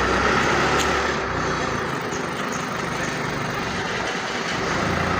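Heavy truck diesel engine running, its low hum fading about a second and a half in and coming back near the end.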